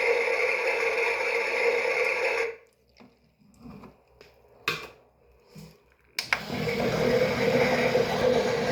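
Toy washing machine's small electric motor running steadily, stopping about two and a half seconds in, then starting up again after a pause of nearly four seconds that holds a few faint clicks.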